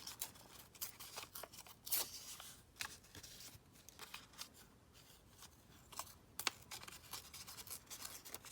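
Scrapbook paper being torn by hand and handled: a run of short, irregular crackles and rustles, quieter for a couple of seconds in the middle.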